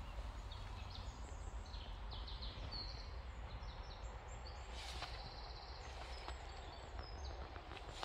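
Small birds singing: runs of short, high chirping notes over a low, steady rumble.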